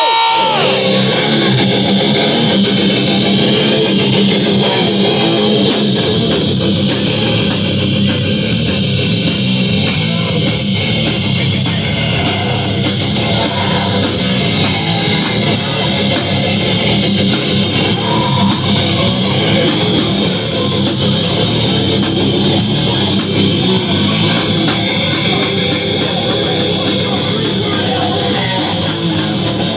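Live rock band playing loud with guitars, bass and drum kit.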